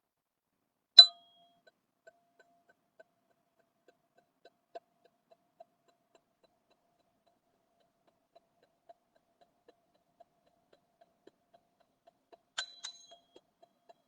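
Black ZenTube sound instrument played sparsely for meditation: one clear ringing strike about a second in, a faint lingering tone with small soft taps, then two more strikes close together near the end.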